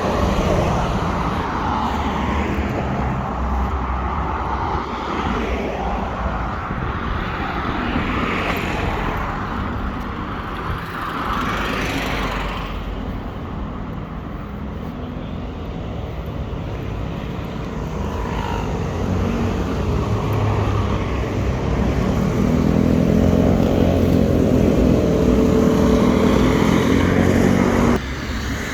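Street traffic: motor vehicles passing with a continuous rumble and hiss, a couple of them swelling loud as they go by. In the second half an engine hums close by, then cuts off suddenly near the end.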